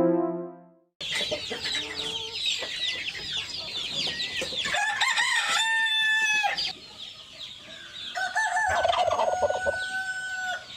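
Flock of chickens clucking and cheeping, with a rooster crowing about five seconds in and another long crow a few seconds later.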